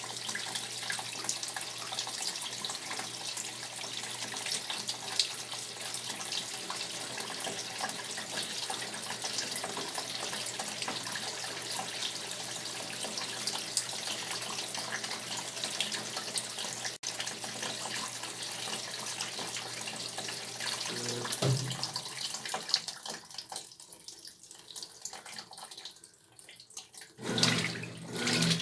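Brastemp top-loading washing machine filling: water pours into the drum as a steady hiss with a low hum, stopping about three-quarters of the way through. Near the end, a lower sound starts in pulses.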